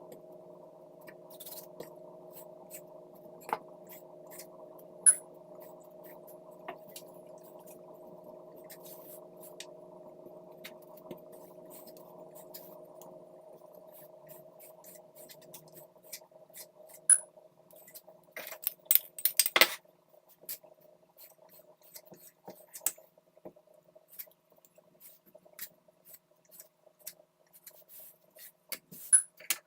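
Kitchen utensils and dishes clinking and tapping, scattered at first, then a quick flurry of sharper clicks a little past the middle. A steady hum underneath fades out about halfway through.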